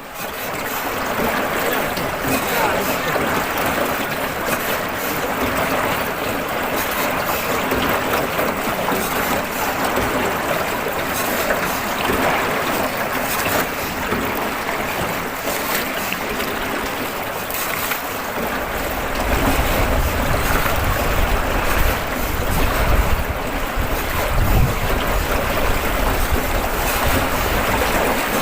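Steady rushing noise of water and wind during a river boat ride. About two-thirds of the way in, low wind buffeting on the microphone joins in.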